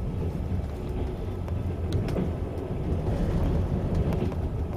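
Trans-Siberian passenger train running, heard from inside the carriage: a steady low rumble of the wheels and running gear on the track.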